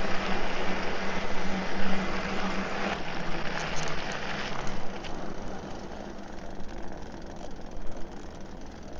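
Bicycle crossing a creek: tyres rushing through water and over gravel, with a steady low hum and rattle from the bike. The noise eases about halfway through as the crossing ends.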